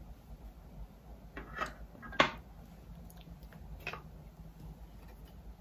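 A few small clicks and taps from handling makeup items, with one sharper click about two seconds in, over a low steady hum.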